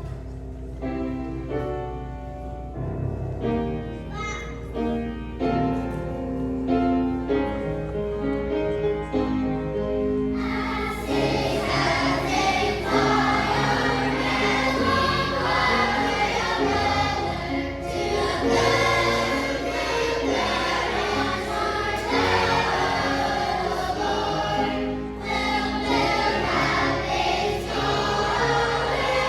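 Children's choir singing with instrumental accompaniment; the music is sparse at first and grows much fuller about ten seconds in.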